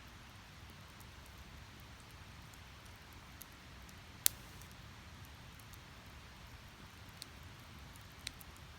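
Split firewood burning in a small steel fire pit: a steady low rush of flames with occasional crackles, one sharp loud pop about four seconds in and two smaller ones near the end.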